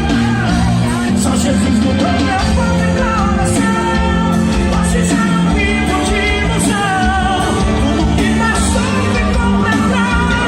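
A live band playing loud upbeat music with a singer's voice carrying the melody, and some shouts.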